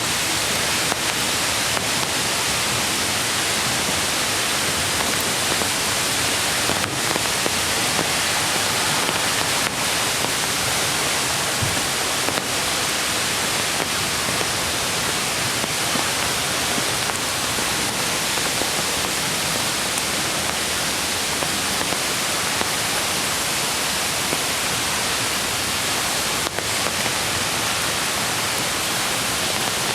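Steady, even rush of a mountain stream flowing over stones, mixed with falling rain.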